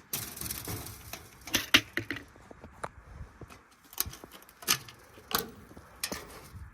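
A run of sharp knocks and clatters, about seven spaced irregularly over several seconds, the loudest near two seconds in.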